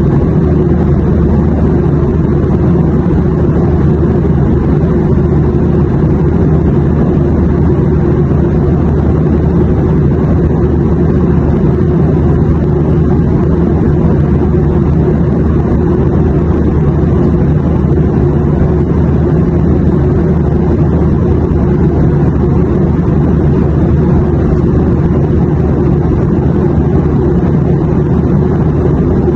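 Airplane cabin noise in flight: a steady, low drone of engines and rushing air that does not change.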